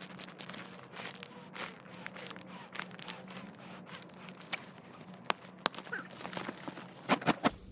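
Rustling and crunching from camping gear being handled in snow, with scattered sharp clicks and a quick run of about four clicks near the end.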